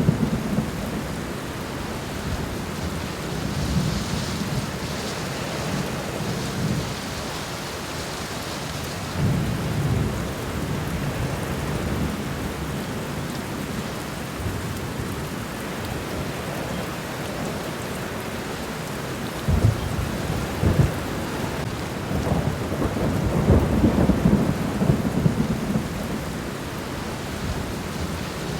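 Steady rain falling on the ground and garden plants, with low rumbles swelling several times, the strongest about two-thirds of the way through.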